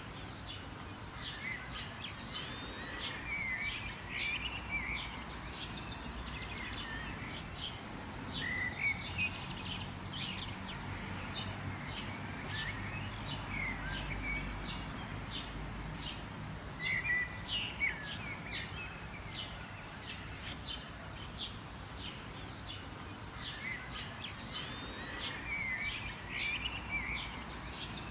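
Many small birds chirping and warbling at once, dense short calls and twittering phrases over a low steady background rumble.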